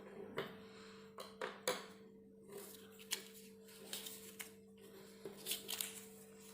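Coloured paper circles rustling as they are picked up and handled, in about ten short bursts, over a steady low hum.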